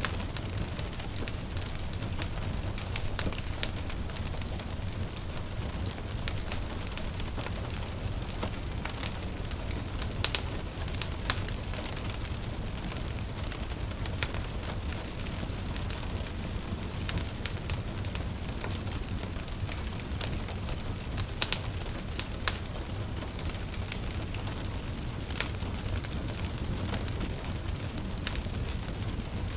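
Wood fire crackling and popping over a steady patter of gentle rain, with a steady low rumble beneath. A few louder pops stand out, around ten seconds in and again after twenty seconds.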